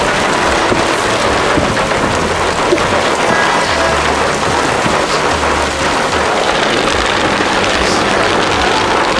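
Heavy rain falling steadily, with intermittent low rumbling.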